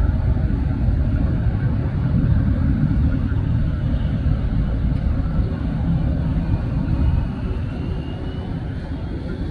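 Jet airliner engines rumbling as the plane passes, easing a little near the end, with a faint high whine in the second half.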